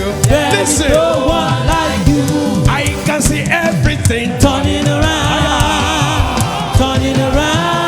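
Church choir singing a gospel praise song over instrumental backing, with a moving bass line and short percussive strokes throughout.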